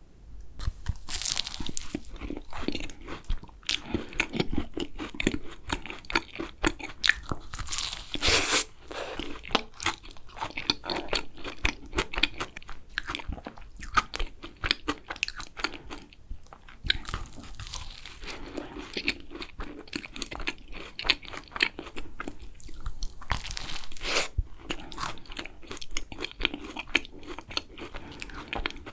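Close-miked crunching and chewing of thick-filled macarons: crisp shells cracking between the teeth, then wet chewing, with a few louder bites.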